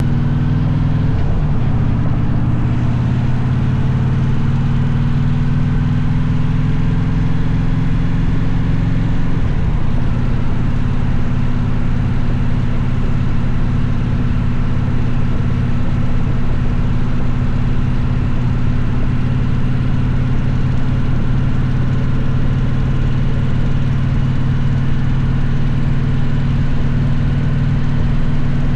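Victory motorcycle's V-twin engine running steadily while riding, with brief dips in engine pitch about a second in and again near ten seconds in.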